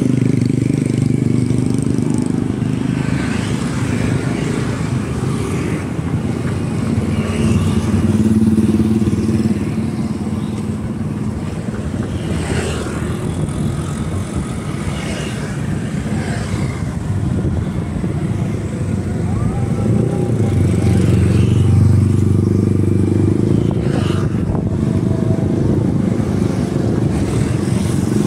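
A road vehicle's engine running as it travels, its pitch shifting with speed, amid street traffic noise.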